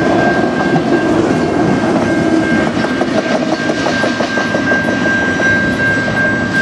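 Freight train's autorack cars rolling past and pulling away, steel wheels clacking over the rail joints, with a steady high-pitched tone running through the rumble.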